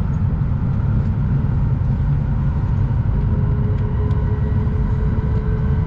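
Shinkansen bullet train running at speed, heard from inside the passenger cabin as a steady low rumble. A faint steady hum joins about three seconds in.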